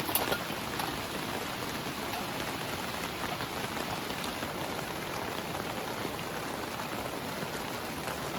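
Heavy rain pouring steadily, with individual drops ticking through it and a brief flurry of louder drops just at the start.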